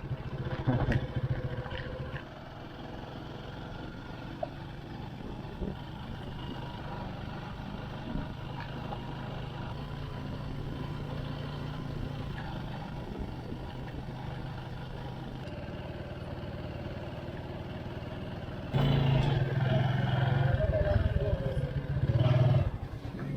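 Motorcycle engine running steadily while riding. It is louder for the first couple of seconds, and louder again for about four seconds near the end.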